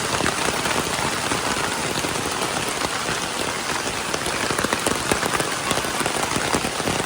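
Heavy rain pouring down: a loud, steady hiss dense with individual drops striking close by.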